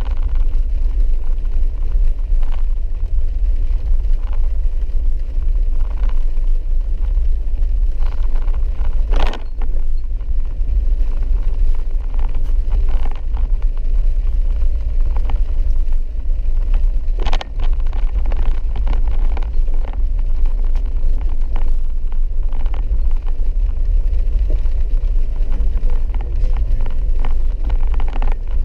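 Steady low rumble of a vehicle driving slowly on a rough, wet dirt road, heard from inside the cab, with two sharp knocks about nine and seventeen seconds in.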